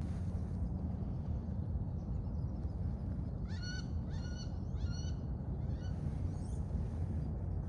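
Wood ducks giving about four thin, rising squealing calls in quick succession midway through, over a steady low rumble.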